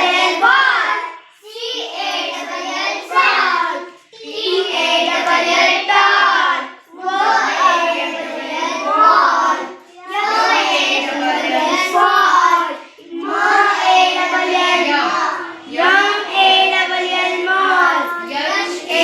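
Children's voices chanting phonics words in a sing-song, spelling out and reading words phrase by phrase. There are about seven phrases of two to three seconds each, with short breaks between them.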